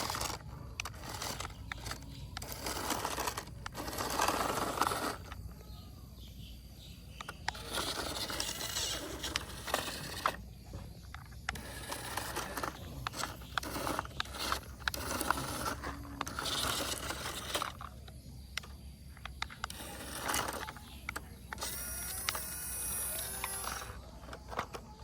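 Small electric motor and plastic gearbox of a remote-control toy vehicle whirring in repeated bursts of a second or two, with short pauses between them.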